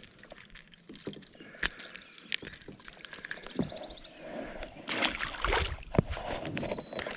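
Scattered clicks and knocks of gear being handled in a kayak, with a brief rapid ticking near the middle, and water sloshing and splashing about five seconds in.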